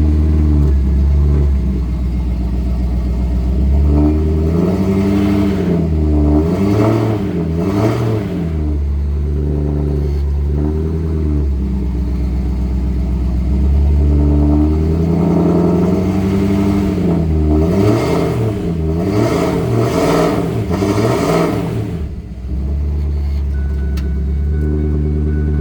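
Ford pickup truck's engine running and being revved again and again, its pitch rising and falling, with a run of quick revs in a row over the second half.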